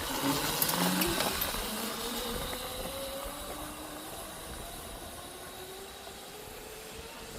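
Electric motor of a 48-volt 1000-watt MotoTec mini bike whining as the bike pulls away, the pitch climbing as it gains speed. The sound fades steadily after about a second as the bike moves off.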